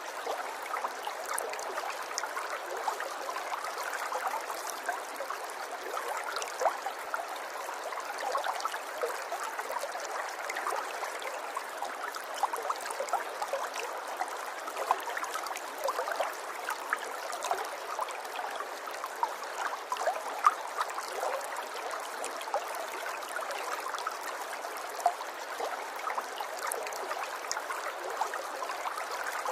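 River water flowing and babbling steadily, with small splashes and gurgles scattered throughout.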